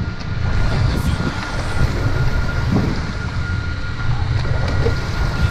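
A boat's engine running steadily, a continuous low rumble with a faint steady whine above it.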